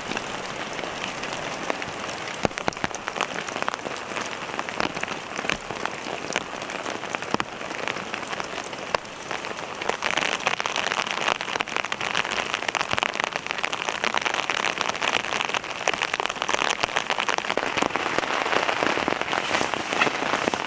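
Steady rain pattering on tent fabric, heard from inside the tent as a dense run of small drop taps. It gets heavier about halfway through.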